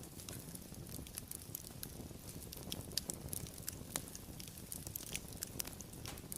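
Wood fire burning and crackling: many irregular sharp pops and snaps over a steady low rumble of the flames.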